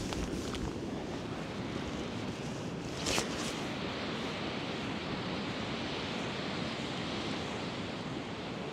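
Sea surf washing on a sandy beach with wind blowing over the microphone, a steady rushing noise. A brief click about three seconds in.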